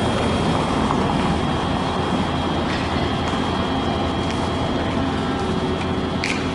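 Light rail train running, a steady rolling noise with a thin steady high tone over it. A short high chirp sounds near the end.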